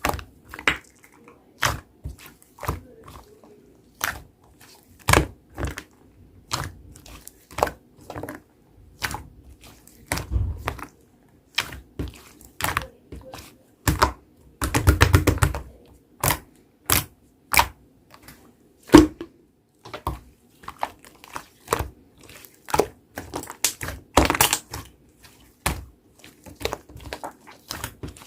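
White clay slime being poked, pressed and folded by hand, giving sharp sticky clicks and pops about twice a second, with a longer squelch about halfway through.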